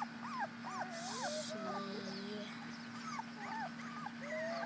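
Three-week-old Brittany puppies whimpering: many short, high whines that rise and fall and overlap one another.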